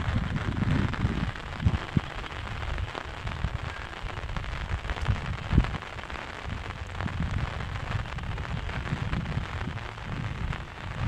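Rain falling and pattering steadily, with low rumbling thumps and a few sharp knocks, the loudest about five and a half seconds in.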